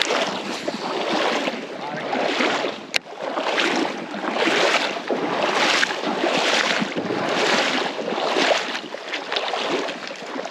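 Creek water swishing around the legs of someone wading, in regular surges about once a second with each stride. A single sharp click comes about three seconds in.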